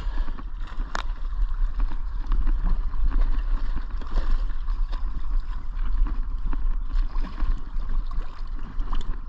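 Wind rumbling on the microphone aboard a small fishing boat, with a steady hiss and many scattered small clicks and knocks.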